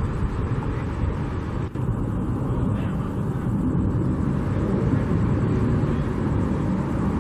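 Strong wind buffeting an unshielded microphone: a loud, uneven low rumble with gusts rising and falling, and a brief drop about two seconds in.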